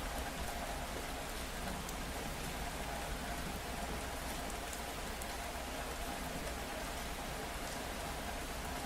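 Steady rain falling, with scattered sharp drop ticks over an even hiss and a steady low rumble underneath.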